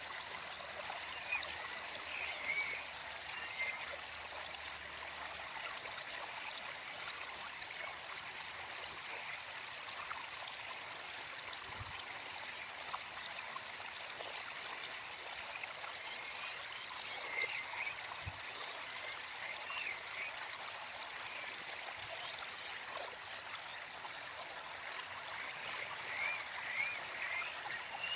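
Gentle forest stream running steadily, with birds singing now and then in short runs of quick chirps, the longest run near the end.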